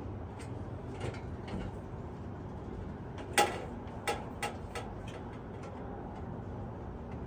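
A few sharp clicks or knocks over a steady low background hum, the loudest about three and a half seconds in, followed by three lighter ones within the next second and a half.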